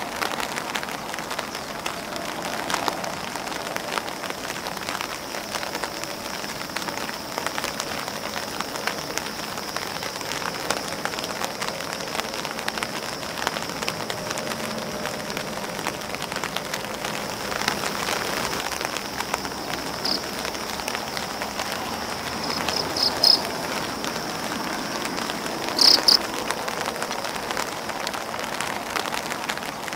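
Rain falling on grass leaves and an open umbrella: a dense, steady patter of drops with many sharper ticks over a steady high-pitched hiss. Two short, louder sounds stand out about three-quarters of the way through.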